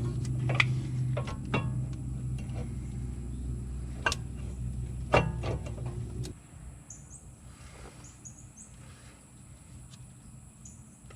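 Sharp metal clinks and knocks of tools and brake parts being handled, several in the first six seconds, over a steady machine hum that cuts off suddenly about six seconds in. After that, faint high bird chirps.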